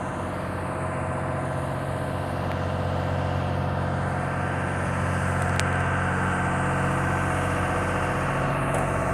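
An engine idling steadily, a low even hum that holds through the pause, with one faint click about halfway through.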